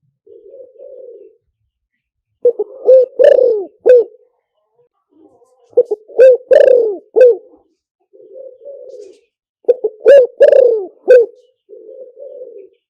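Spotted dove cooing: three loud phrases of three or four quick, dropping coos, each led in by a softer, rough low coo.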